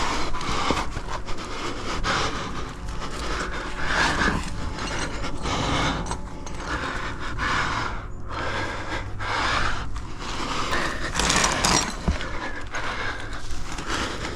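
A climber breathing hard in rhythmic gasps while working up a sandstone chimney, close to the microphone, with scraping of body and shoes against the rock.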